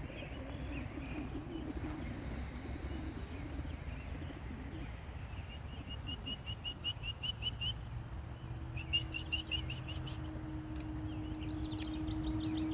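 A songbird chirping in quick runs of repeated high notes, twice in the middle, over a low outdoor rumble. About two-thirds through, a steady low hum comes in and grows louder near the end.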